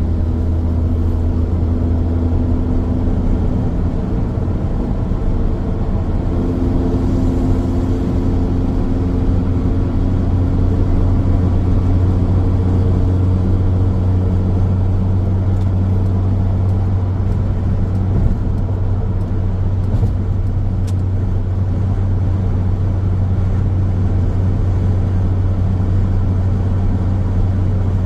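Car driving along a road: a steady low rumble of tyres and engine, with the engine note shifting slightly now and then.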